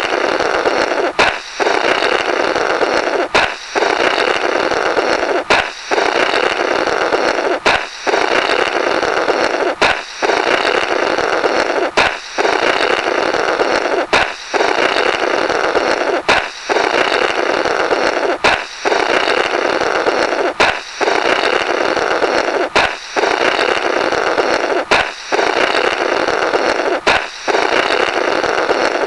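Comical 'blorrrt' sound effect of a balloon popping, then someone blowing through the burst remnants, looped: a sharp pop followed by about two seconds of steady, noisy blowing, repeating about every two seconds.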